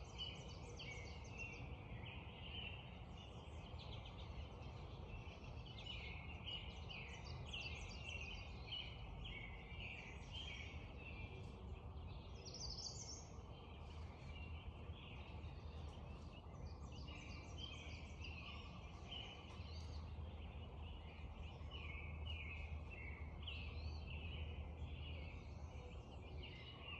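Spring dawn chorus: many songbirds chirping and singing at once in quick, overlapping phrases, over a steady low background rumble.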